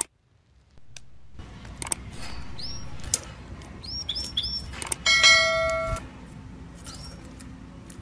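Birds chirping in short, high calls over a steady low hiss, with a few sharp clicks. About five seconds in, a bell-like ring sounds once and fades out after about a second.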